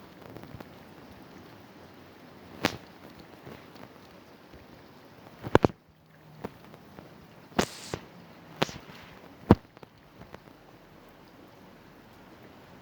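Scattered sharp clicks, about half a dozen spread irregularly through the middle of the stretch, over a faint steady hiss.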